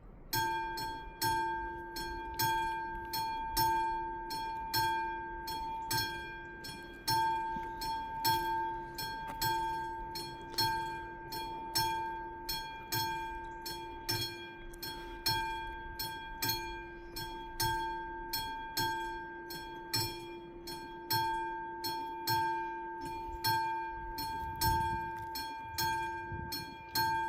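Classic electromechanical level-crossing bells start ringing suddenly, a steady run of rapid metallic strikes that ring on between blows: the crossing's warning that a train is approaching and the barriers are closing.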